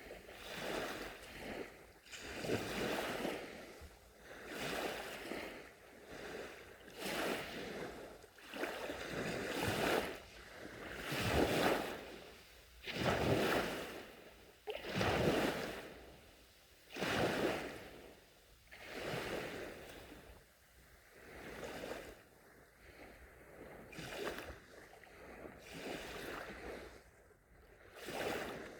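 Small waves lapping on a sandy shore, each swelling and washing back about every two seconds, stronger in the middle and softer near the end.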